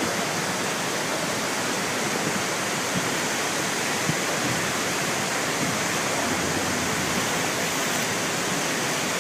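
Steady, loud rush of a large waterfall's falling water heard up close.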